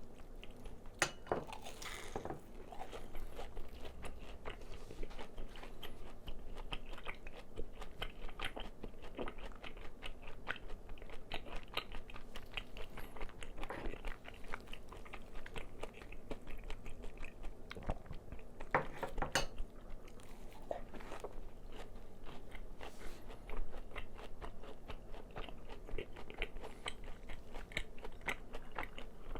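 Close-miked chewing of crispy fried chicken: the batter crunches and crackles in a dense run of small crunches, with a few louder bites spread through.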